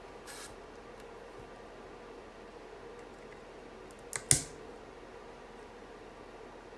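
Mechanical keyboard parts being handled: a soft scrape near the start, then a quick run of small clicks about four seconds in, ending in one sharp plastic snap.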